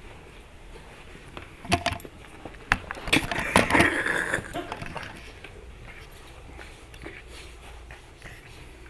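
Labrador puppies playing: a couple of sharp knocks, then a louder burst of clattering and scuffling about three seconds in that dies away within two seconds.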